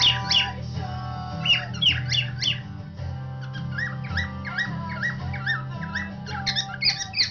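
Cockatiel whistling in runs of short sliding chirps, coming fastest near the end, over music with guitar.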